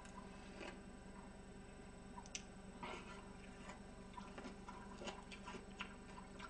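Faint close-up chewing and wet mouth clicks, scattered soft ticks a second or less apart, over a low steady electrical hum.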